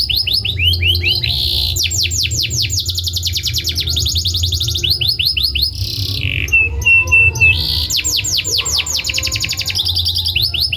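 Canary singing a fast, loud song of rolling trills: runs of rapidly repeated high sweeping notes, with a short steady whistled note about two-thirds of the way through.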